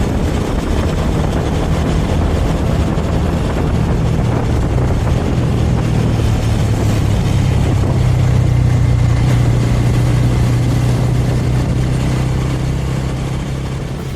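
Suzuki Thunder motorcycle engine running at a steady cruising speed under a rush of wind and road noise; the engine note holds steady and grows stronger about halfway through.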